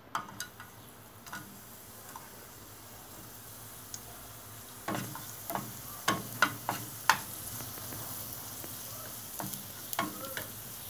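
Tamarind frying in hot coconut oil in a non-stick pan, a soft steady sizzle. A wooden spatula knocks and scrapes against the pan several times in the middle and again near the end.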